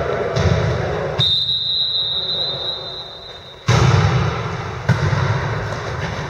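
Volleyball match in a gym: hall noise, then about a second in a single long, steady blast of a referee's whistle lasting over two seconds. Hall noise comes back suddenly after it, with a sharp thud about five seconds in.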